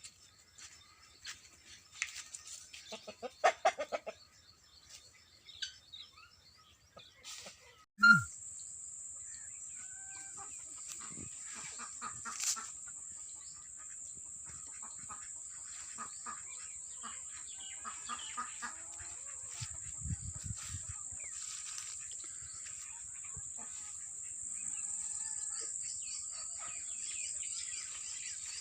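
Chickens clucking with scattered small-bird chirps. About eight seconds in, a sharp click, then a steady high-pitched hiss runs under the calls.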